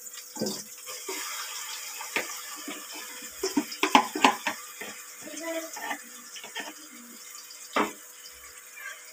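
Onions frying in oil with a steady sizzle while a steel spoon scrapes and knocks marinated chicken out of a plastic bowl into the metal pot; the sharpest clacks come about four seconds in and again near the end.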